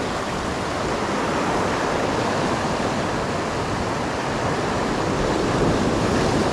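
Steady rush of ocean waves washing on the shore.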